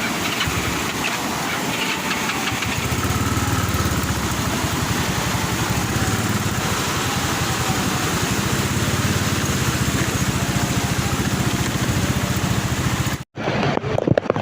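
A motor vehicle engine running steadily under a constant rushing noise. The sound drops out abruptly near the end.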